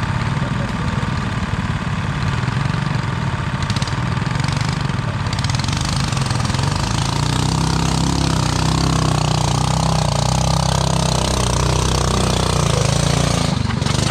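Tractor engine running hard, its low hum building and holding steady from about halfway through, as when pulling through mud.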